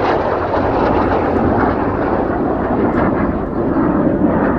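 Loud, steady noise of jet aircraft flying by on turbojet power, each engine making roughly 5,000 pounds of thrust.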